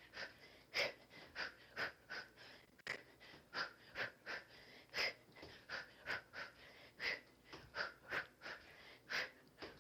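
Short, sharp breaths pushed out through the mouth in time with punches and kicks, about two a second in an uneven rhythm: hard exertion during a kickboxing drill.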